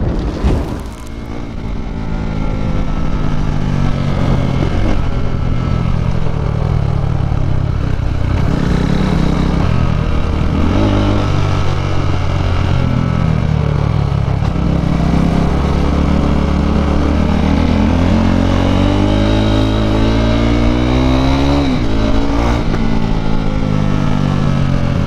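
KTM RC 390's single-cylinder engine through an Akrapovič exhaust, running under way and changing pitch as it accelerates and shifts. Near the three-quarter mark it revs up in one long rising sweep, then drops back.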